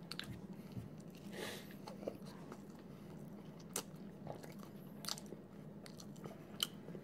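Person biting into and chewing a soft chicken wrap close to the microphone: quiet wet mouth sounds with scattered smacks and clicks.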